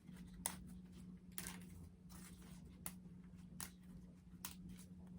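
Faint, scattered crackles and rustles of dried tobacco leaf being torn into strips by hand, over a steady low hum.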